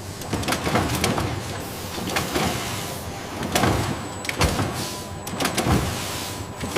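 Factory machinery running, a steady mechanical noise with irregular clattering knocks and clicks throughout.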